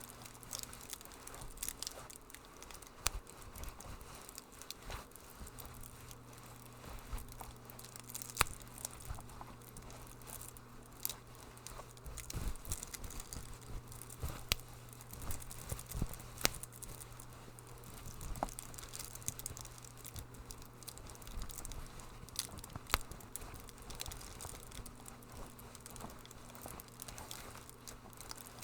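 Wood fire crackling in a fireplace: irregular sharp pops and snaps over a steady hiss, with a low hum underneath.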